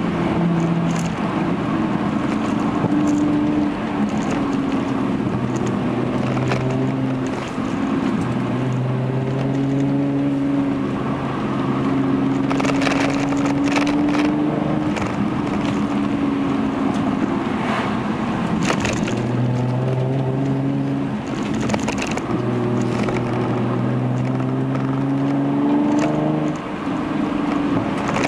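Hyundai Genesis Coupe's 3.8 V6 through an aftermarket Young Motors catback exhaust, heard from inside the cabin while driving. The engine note holds steady pitches that step up and down as the revs change, over road noise, with a few sharp clicks around the middle.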